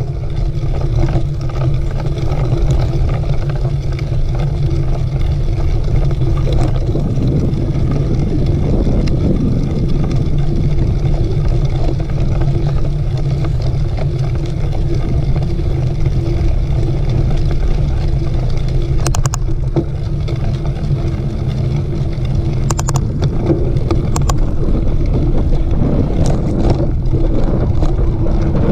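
Mountain bike riding over dirt trail, a steady loud rumble of tyres and wind on the microphone, with a few brief rattling clicks.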